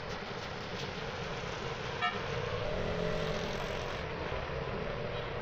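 Street traffic noise, with passing motor vehicles and a short vehicle horn toot about two seconds in.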